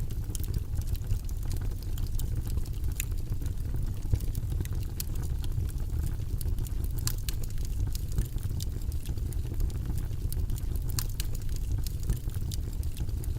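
Steady white noise, mostly deep in pitch, with scattered sharp little clicks over it.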